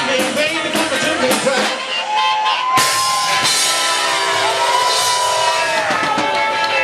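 Live rock and roll band playing loudly. About two seconds in, a lead instrument takes over with long held notes that bend slightly in pitch over the band.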